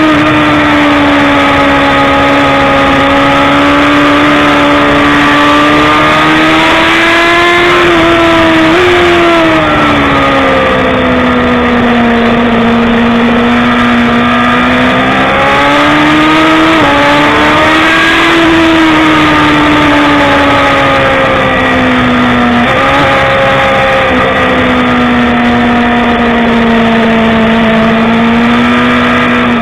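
BMW S1000RR inline-four sportbike engine running hard at racing speed. Its pitch slowly rises and falls every few seconds, over a steady rushing noise.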